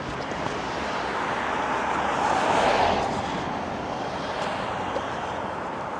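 A car passing by on the road, its noise rising to a peak a little over halfway in and then fading away.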